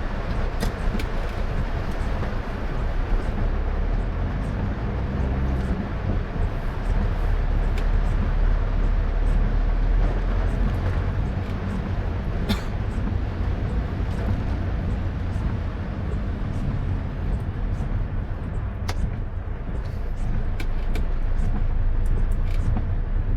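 A car driving on a wet road in rain: a steady low rumble of engine and tyres with a haze of road spray, and occasional sharp ticks.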